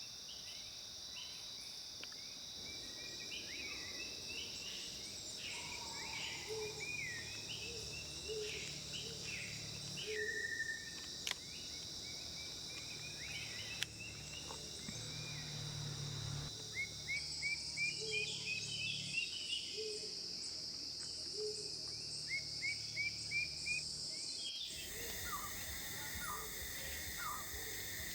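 Wild birds calling over a steady, high insect drone: quick runs of short rising notes and some lower notes. Near the end the recording cuts to another bird giving a series of short, lower call notes.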